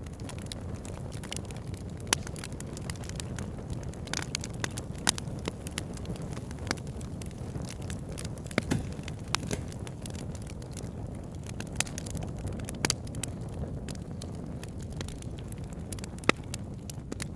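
Wood fire burning: irregular sharp crackles and pops of burning wood, a few much louder than the rest, over a steady low rumble.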